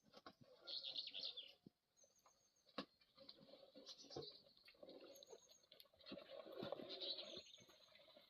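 Faint birds chirping in short clusters, with scattered light clicks and taps.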